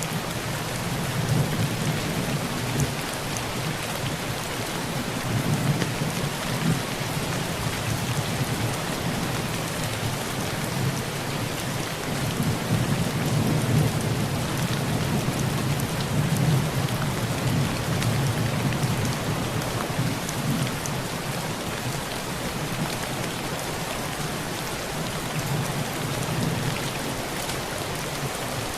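Heavy rain pouring on a tin roof as a steady hiss, with thunder rumbling low. The rumble swells and fades about three times: early on, around the middle, and again near the end.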